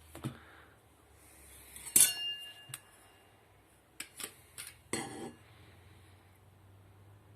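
Hard parts of a blender being handled and set down: a few sharp clinks and clicks. The loudest comes about two seconds in and rings briefly, and a cluster of clicks and knocks follows about four to five seconds in.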